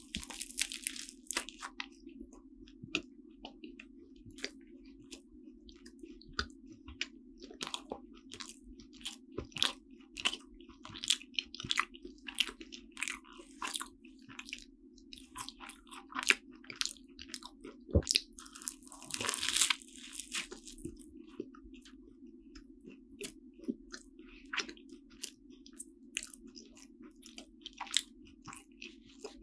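Close-miked eating of a flaky chocolate-cream croissant: a bite into the crisp pastry at the start, then chewing with many small crackles and soft mouth sounds, and a louder crackling stretch about two-thirds through. A steady low hum runs underneath.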